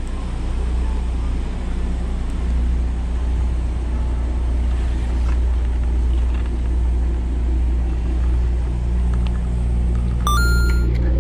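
Boat engine running steadily, a low even hum. Near the end a brief high tone steps in pitch.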